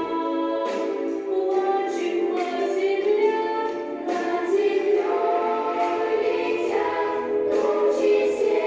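A vocal ensemble singing a song, its voices holding and moving between sustained notes.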